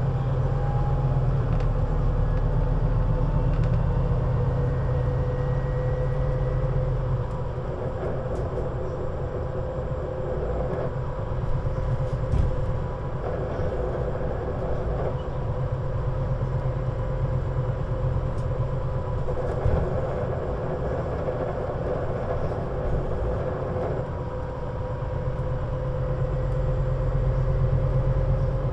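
Scania CN320UA 6x2/2 articulated city bus running, a continuous low engine hum with a steady whine above it. The hum changes about a quarter of the way in and again near the end, where the whine rises slightly.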